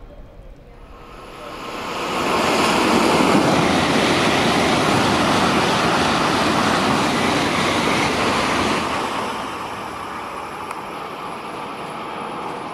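Tokaido Shinkansen train passing through the station at speed without stopping: a loud, even rushing noise that swells in about a second and a half in, holds for about seven seconds, then fades to a lower rush as the train draws away.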